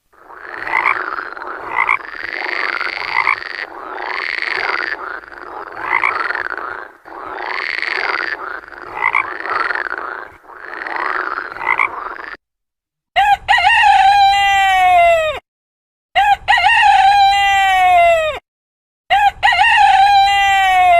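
Frogs croaking in repeated bursts for about twelve seconds, then a rooster crowing three times, each crow long and dropping in pitch at the end.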